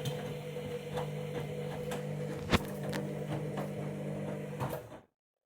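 Candy Grand'O Vita 7kg washing machine running on a synthetics wash with a small load: a steady motor hum with scattered clicks from the turning drum and one sharp knock about halfway. It stops abruptly near the end.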